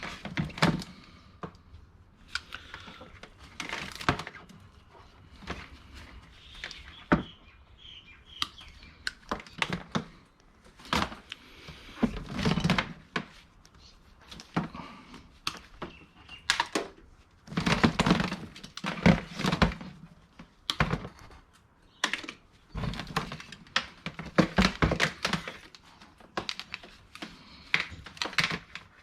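Irregular clatter of scrap being handled: knocks, clicks and thuds of cords and small objects picked up and dropped into buckets, coming in bursts with short pauses between.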